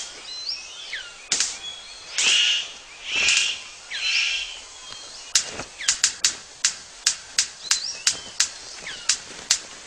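Male superb bird of paradise in courtship display: four harsh rasping calls in the first few seconds, with falling whistles around them, then from about five seconds in a run of sharp clicks, two to three a second.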